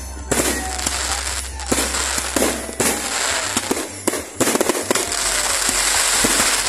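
Fireworks display: aerial shells bursting in a quick run of sharp bangs, with dense crackling that thickens into a continuous crackle in the last couple of seconds.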